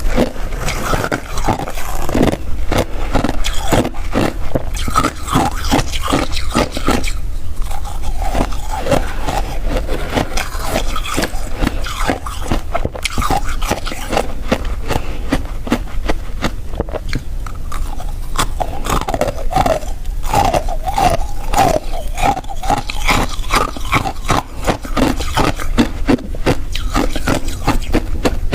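Crunchy freezer frost being bitten and chewed close to the microphone, a dense run of irregular crunches.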